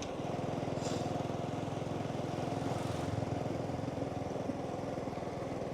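Small motorbike engine running at a steady cruise while riding along.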